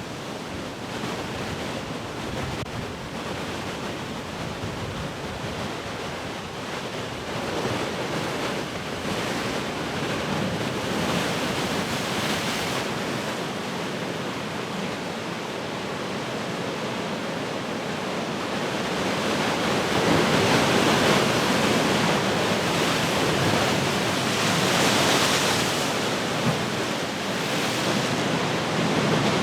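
Heavy ocean surf: large waves breaking and washing in as a steady rush of noise, swelling as bigger waves break about 8 seconds in and again, loudest, from about 20 seconds in, with wind buffeting the microphone.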